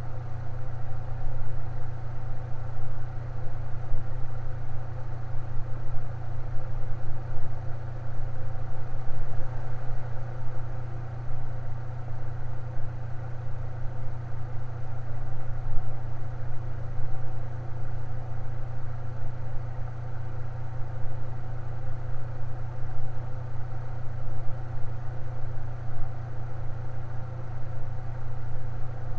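Electric fan running steadily: a constant low motor hum with faint steady higher tones and a soft even whoosh of air.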